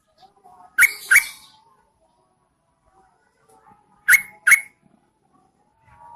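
Yellow-vented bulbul, a female by the recording's own account, calling in two pairs of short sharp notes, one pair about a second in and another about four seconds in, with soft quieter notes between.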